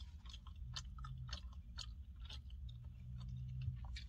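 A man chewing a mouthful of steak and rice close to the microphone: a string of soft, irregular wet clicks over a low steady hum.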